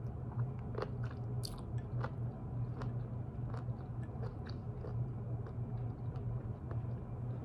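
A person chewing and biting crunchy food close to the microphone, with many small irregular clicks and crunches, over a steady low hum.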